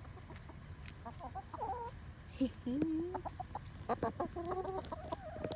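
Chickens clucking: a few short calls starting about a second in, then a busier run of clucks near the end.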